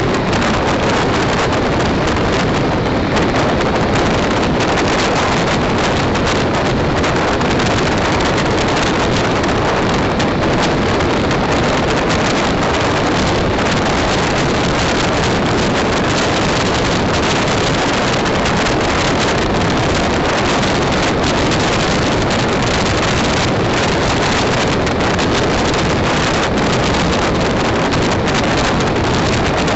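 Steady running noise of a moving train heard from on board, with wind buffeting the microphone.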